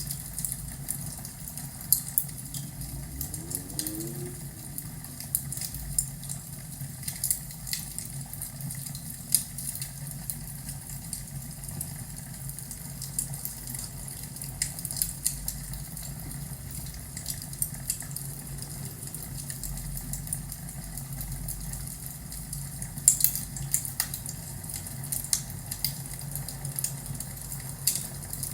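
Wood fire crackling in a fireplace: irregular sharp pops and snaps over a low steady hum, with a brief cluster of louder pops near the end.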